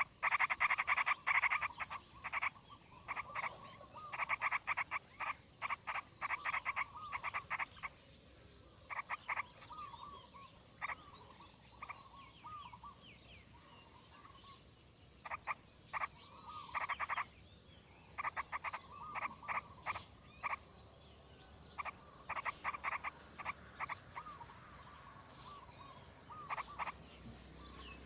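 Frogs croaking in bursts of rapid pulsed calls, several runs overlapping, with short pauses between clusters.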